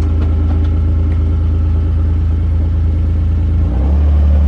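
Utility vehicle's engine running steadily under load as it slowly tows a heavy coop up an icy slope with little traction, with a deep drone. Near the end the engine note rises as it revs up.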